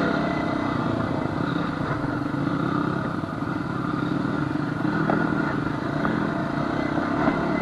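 Honda FourTrax ATV's four-stroke engine running steadily at an even trail-riding pace, heard from on board.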